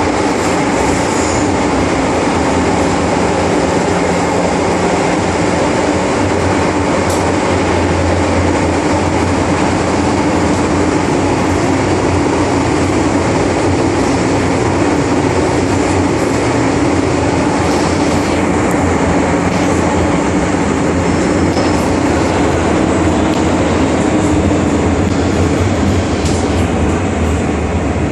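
MTR Island Line metro train running at speed through the tunnel, heard from inside the car: a loud, steady rumble and wheel-on-rail noise.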